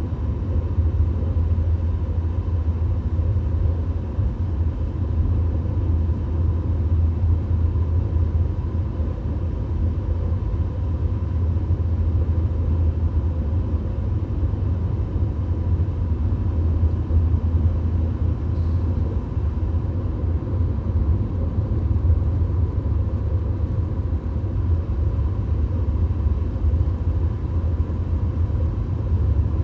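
VW Golf driving at steady motorway speed: an even, low rumble of road and engine noise, with a faint steady high tone running through it.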